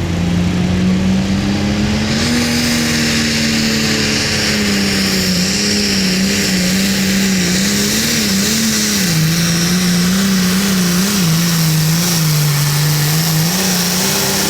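Hot farm pulling tractor's diesel engine running hard at high revs under load down the track, its pitch climbing about two seconds in and then wavering up and down, over a steady high hiss.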